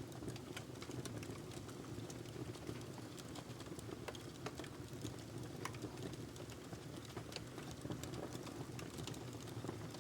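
Wood fire burning in a fireplace: a steady low rumble of flames with frequent small, sharp crackles and pops from the logs at irregular intervals.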